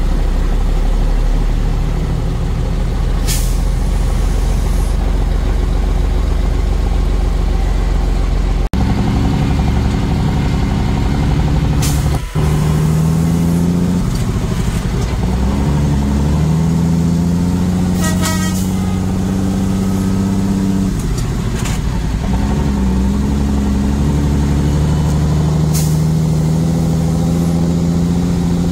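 Truck engine running on the road, its note stepping up and down with gear changes and engine speed, with several short, sharp hisses along the way.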